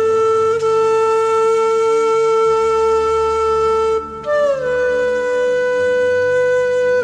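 Background music: a flute holds one long note, breaks off about four seconds in, then plays a second note that slides slightly down and is held, over a soft low sustained drone.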